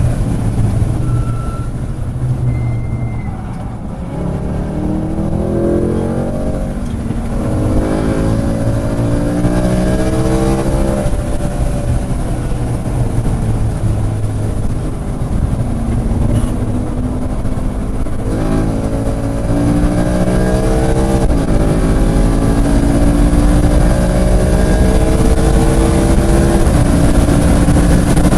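Track car's engine heard from the cabin under hard acceleration, climbing in pitch through the gears with quick upshifts about a third of the way in and twice more near the end, and easing down in pitch in between as the car slows for a corner.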